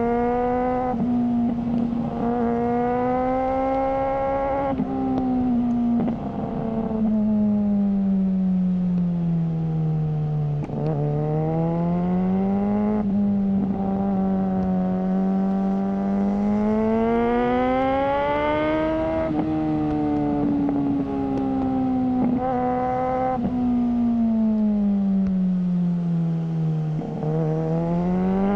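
Suzuki GSR600's inline-four engine breathing through a GPR Ghost aftermarket exhaust, under way and revving up and down. Its pitch climbs steadily in each gear and breaks sharply at several shifts, then sinks for long stretches as the bike slows, twice before picking up again.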